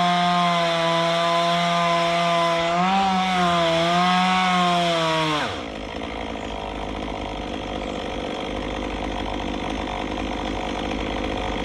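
Chainsaw running at high revs, its pitch wavering as it cuts under load. About five and a half seconds in the revs drop off sharply, leaving a lower, rougher engine noise.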